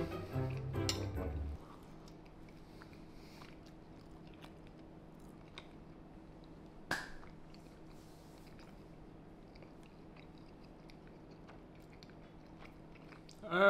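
Faint chewing of a microwaved chicken burrito: soft mouth sounds and small clicks, with one sharper click about seven seconds in.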